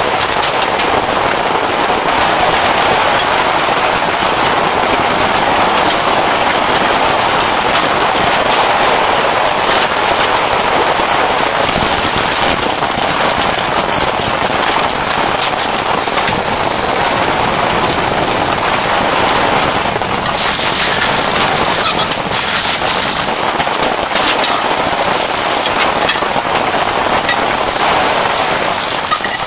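Heavy rain falling steadily on a surface, a dense hiss thick with the ticks and crackle of individual drops striking. A brighter, hissier stretch comes in about two-thirds of the way through.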